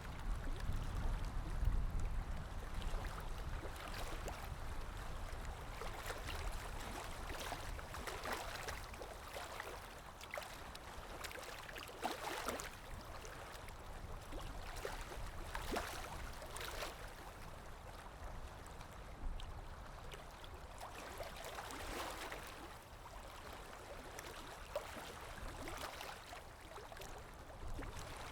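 Calm sea waves washing, a steady wash that swells a little every few seconds.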